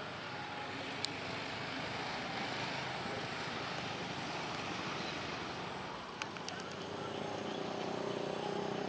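Steady roar of a jet airliner's engines, with a sharp click about a second in and a few more clicks a little after the middle. Near the end a small engine starts to hum steadily, growing louder.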